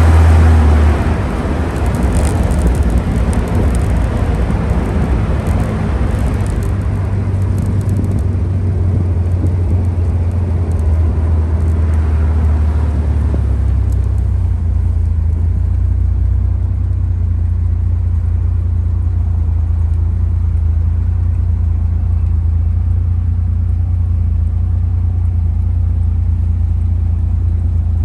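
Panther J72's 4.2-litre DOHC straight-six running with the car under way: a steady low drone with road noise, loudest in the first second or so. The hiss of road and wind thins out about halfway through, leaving mostly the engine drone.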